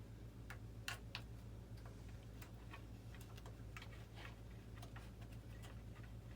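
Light, irregular clicks and taps from small handwork, a wire-fishing tool and leads being worked against the model jet's airframe, with the loudest click about a second in. A steady low hum runs underneath.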